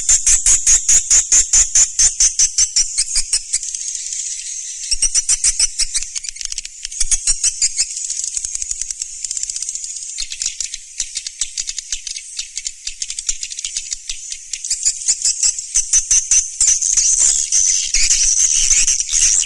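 Swiftlet calls played as a lure track: a rapid, high-pitched chittering trill of dry clicks, about six a second, coming in long bursts with brief lulls.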